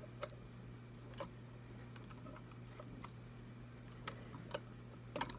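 A few scattered, light clicks and taps of small metal guitar parts, the potentiometers, being set into a Telecaster's metal control plate. A steady low electrical hum runs underneath.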